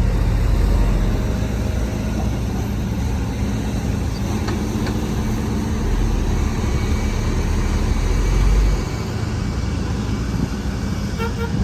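Heavy diesel earthmoving machinery running steadily, a deep low rumble that eases slightly about nine seconds in.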